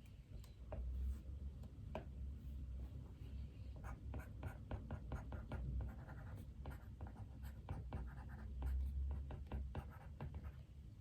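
Desk work: quick, irregular light taps and short scratchy strokes, sparse at first and then dense from about four seconds in, over a steady low hum.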